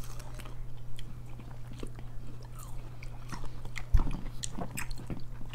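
Crisp crunching and chewing of raw starfruit (carambola) being bitten and chewed, in short crunches and wet mouth clicks, with one louder thump about four seconds in. A low steady hum runs underneath.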